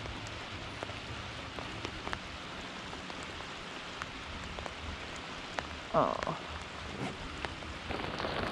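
Steady rain falling on the lake water, with the sharp ticks of single drops striking close by. A brief louder sound stands out about six seconds in.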